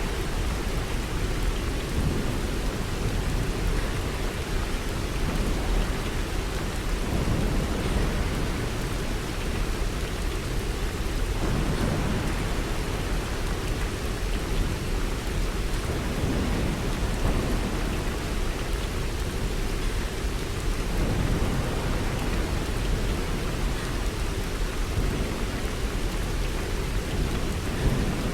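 Steady rain with low rolling thunder rumbling and swelling every few seconds.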